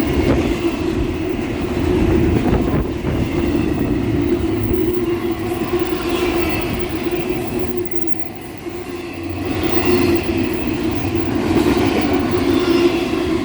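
A train passing close by: steady wheel-on-rail rumble with a steady hum, dipping briefly just past the middle and then building again. Wind buffets the microphone.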